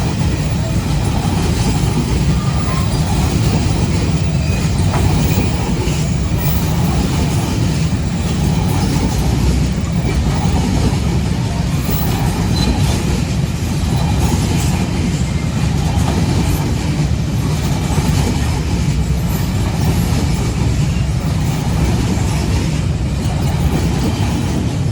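An oil tank freight train rolling past with a steady, heavy rumble of wheels on the rails and some clatter over the rail joints.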